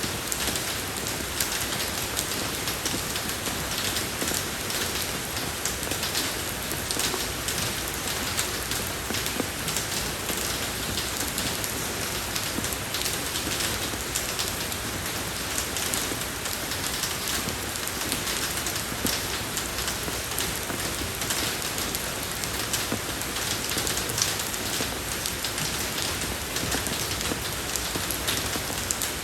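Steady rain falling on a road surface, a dense even patter of drops with many fine splashes.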